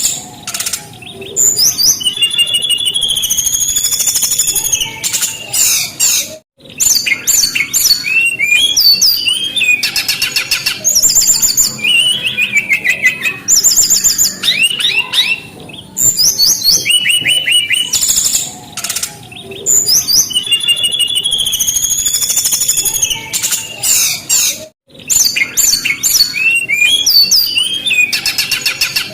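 Brown-chested jungle flycatcher singing vigorously and without pause: a dense, varied run of clear whistles, trills and rapid chattering note series. The song breaks off briefly about six seconds in and again near the end.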